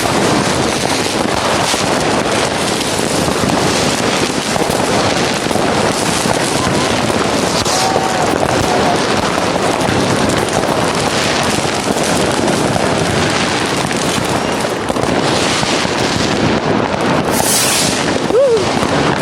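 Many fireworks and firecrackers going off all around at once: a dense, continuous crackling and banging with no pause. A brief hiss near the end.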